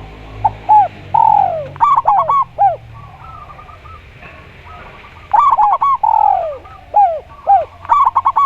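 Caged doves cooing, from a spotted dove and a zebra dove: repeated phrases of quick, clipped notes mixed with long coos that slide downward, in two main bouts a few seconds apart.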